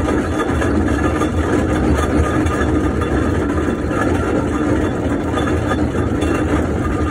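1914 Fowler showman's steam engine running steadily with a low rumble.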